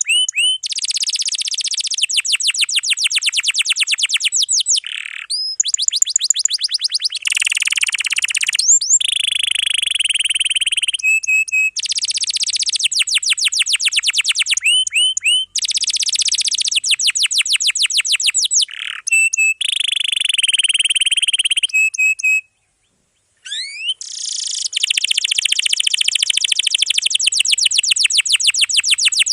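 Domestic canary singing long, rapid rolling trills, one dense phrase after another, with a brief pause about two-thirds of the way through.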